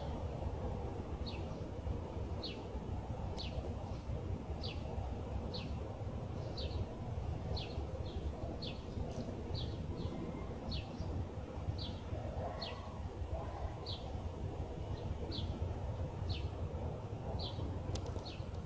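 A bird calling over and over: a short high chirp that drops in pitch, about once a second, over a steady low rumble.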